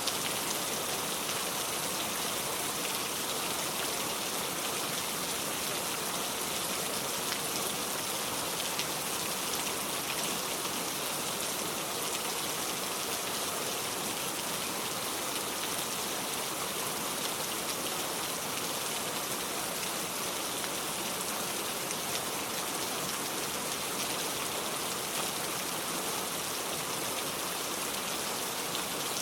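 Steady rain falling and pattering on a surface, an even hiss without let-up.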